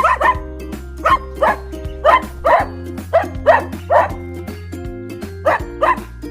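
Dog barks in quick pairs, about one pair a second, over a backing music track with a steady bass line.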